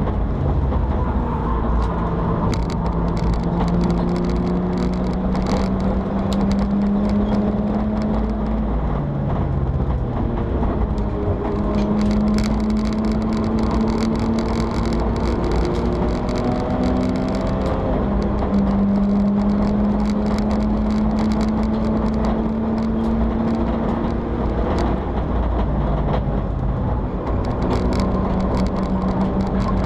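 In-car sound of a BMW 325i E90 race car's straight-six engine running hard at speed, its note climbing slowly under load and dropping sharply several times before climbing again. Road and wind noise run underneath.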